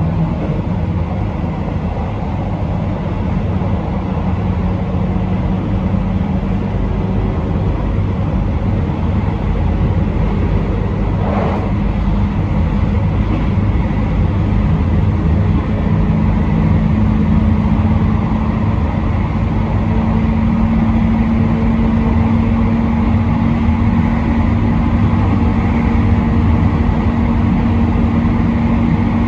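Train running on rail, heard from on board: a steady low rumble with a motor hum that rises slowly in pitch as the train gathers speed.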